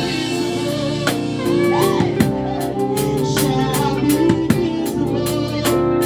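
Live worship band music: sustained keyboard chords over a drum kit keeping a steady beat, with a pitched melodic line gliding above.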